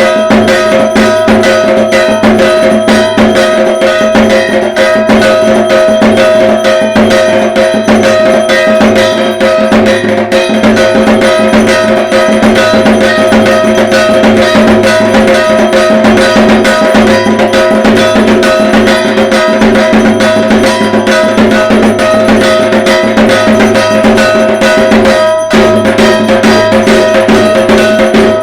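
Dhak drums played in a fast, unbroken Durga Puja rhythm, with a bright metallic ringing laid over the drum strokes. The rhythm drops out for a moment about 25 seconds in.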